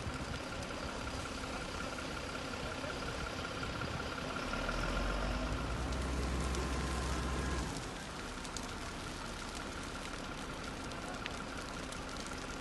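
An engine running steadily, with a deeper rumble swelling for about three seconds in the middle.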